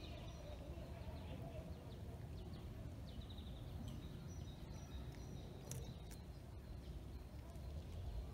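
Outdoor background noise with a steady low rumble, and small birds chirping now and then, with a quick run of chirps about three seconds in.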